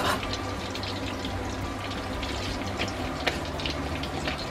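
Slices of salami frying in oil in a skillet: a steady sizzle with scattered crackles and pops.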